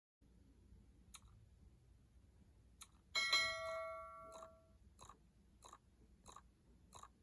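A single metallic clang about three seconds in that rings on with several clear tones for over a second, followed by light, evenly spaced ticks about one and a half times a second.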